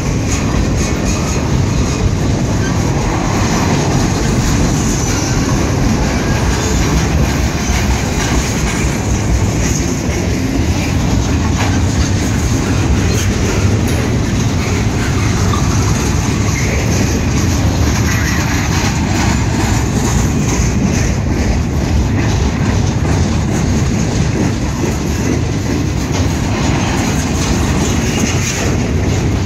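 CSX intermodal train of container-laden well cars passing close by at steady speed: a continuous rumble of steel wheels on the rails, with a clickety-clack as the trucks cross the rail joints.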